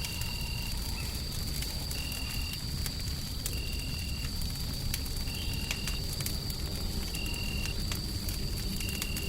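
Wood fire crackling with scattered sharp pops over a steady low rumble of noise. A faint high steady tone runs throughout, and a short high chirp repeats about every one and a half to two seconds, six times.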